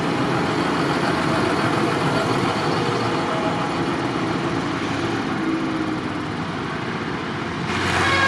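Tractor engines running steadily, getting louder and brighter near the end.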